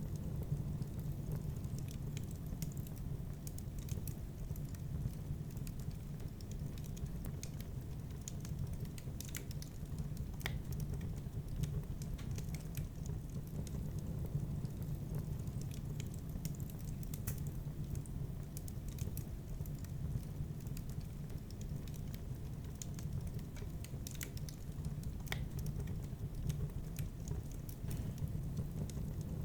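Wood fire burning in a fireplace, crackling with scattered sharp pops and snaps over a steady low noise.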